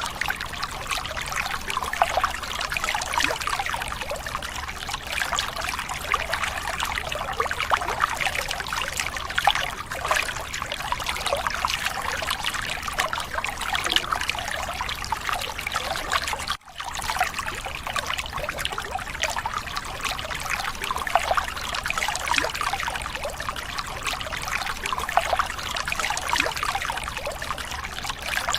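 Water trickling and splashing steadily, with a momentary break a little past the middle.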